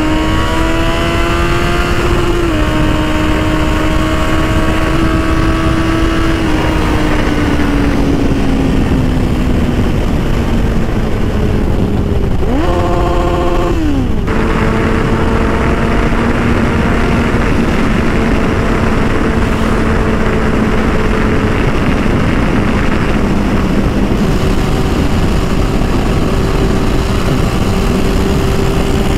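Motorcycle engine running at steady highway speed under heavy wind noise, its pitch drifting slowly down and up. About halfway through, the revs climb quickly for a second or so and then drop back.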